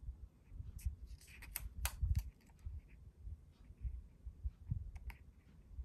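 Hands working paper on a journal page: scattered sharp clicks and taps over frequent low thumps.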